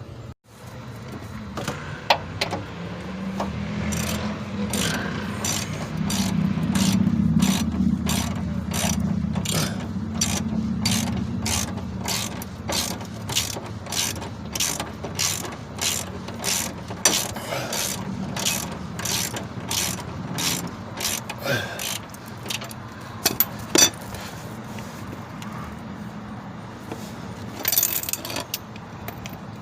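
Hand socket ratchet clicking in quick, even strokes, about two or three a second, as a bolt on a Honda Civic's rear lower engine torque mount is worked loose. A few sharp metal knocks come near the end, and a low drone runs under the first half.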